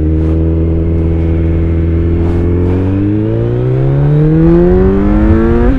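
Kawasaki Z900's 948 cc inline-four through an Akrapovic exhaust with the dB killer fitted, heard from the rider's seat. The engine runs steady for about two seconds, then the revs climb under hard acceleration for several seconds, dropping sharply at an upshift near the end.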